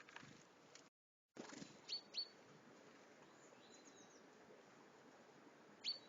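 Garden songbird calls over a faint outdoor background hiss: two short, sharp chirps about two seconds in, fainter calls around four seconds, and another sharp chirp just before the end. The sound drops out completely for a moment about a second in.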